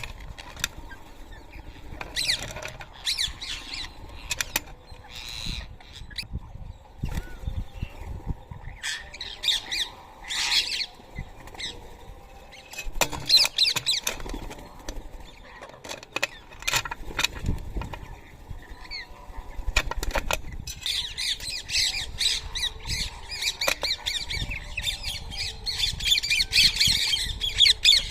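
Rose-ringed parakeets calling with shrill squawks at a feeding spot, scattered at first with wingbeats and short sharp knocks, then a flock squawking almost continuously over the last several seconds.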